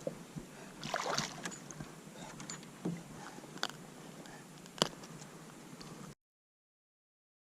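Small knocks and clicks of fishing gear against a kayak on the water, over a light hiss, with the loudest knock near the five-second mark. The sound then cuts out to dead silence about six seconds in.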